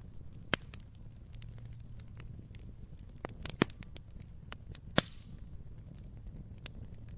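Wood fire crackling: irregular small snaps with three louder pops, about half a second in, around three and a half seconds in and about five seconds in, over a low steady rumble.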